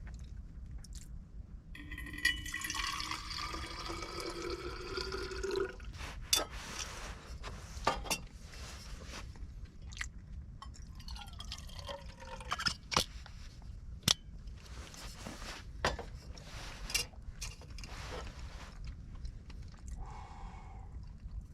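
Liquid poured into a container, its pitch rising for about four seconds as the container fills, followed by scattered sharp clicks and knocks of gear being handled.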